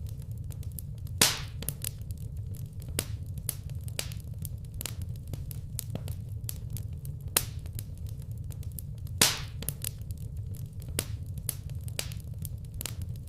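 Wood fire crackling in a fireplace: frequent sharp snaps and pops over a steady low rumble, with two louder pops, one about a second in and another about nine seconds in.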